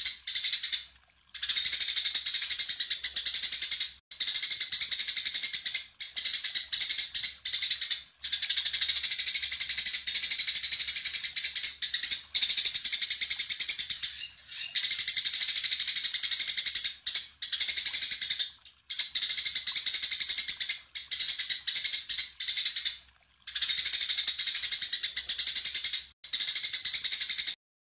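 A songbird singing a fast, continuous chattering song in long runs broken by brief pauses, with a faint low hum underneath.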